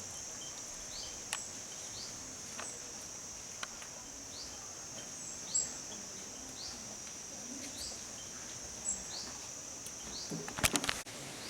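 Outdoor insect chorus: a steady high-pitched drone, with short falling chirps repeating about once a second. A few scattered clicks break through, and a quick cluster of clicks comes near the end.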